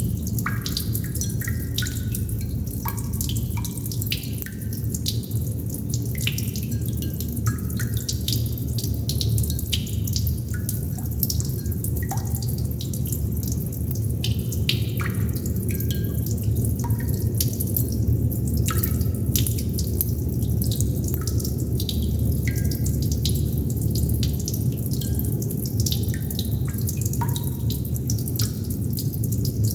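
Water droplets falling and plinking irregularly, many drops a second, several with a short pitch that bends upward, over a steady low rumble.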